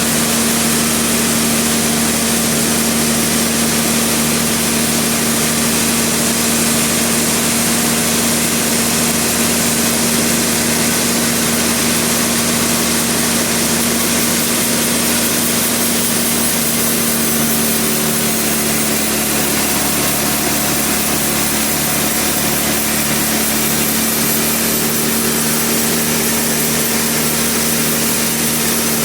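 Sawmill machinery running steadily: a constant mechanical drone with a steady hum over a hiss, with no pauses or changes.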